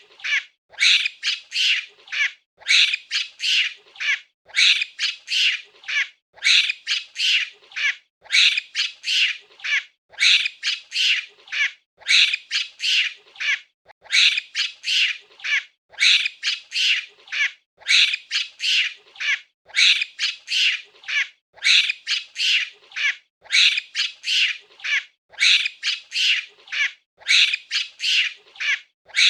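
Monkey calls: high-pitched, harsh chattering in quick clusters of several short notes, one cluster about every two seconds in an even, repeating pattern.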